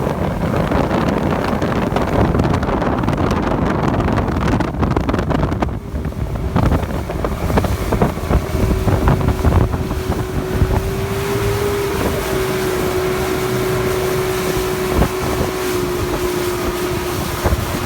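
Motorboat engine running under way, with wind rushing over the microphone. From about six seconds in, a steady engine drone holds one pitch.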